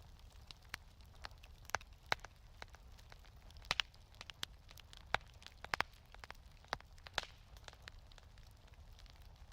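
Wood fire in a fireplace crackling, with irregular sharp pops, several of the loudest close together in the middle, over a low steady rumble.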